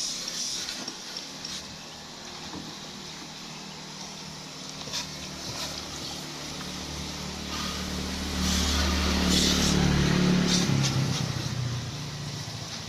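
A motor vehicle's engine passing by: it grows louder over several seconds, is loudest about nine to ten seconds in, then fades away.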